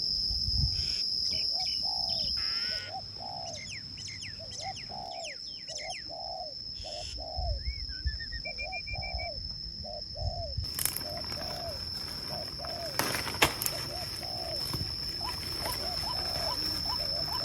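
Outdoor birdsong: short low calls repeating about twice a second, with scattered higher chirps over a steady high-pitched tone. The background changes abruptly twice.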